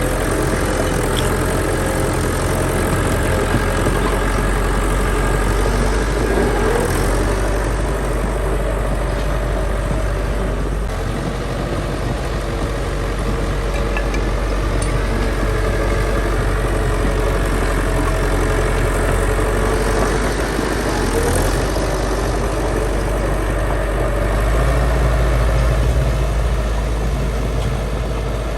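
Heavy diesel construction machinery running steadily, with the engine note shifting a little now and then.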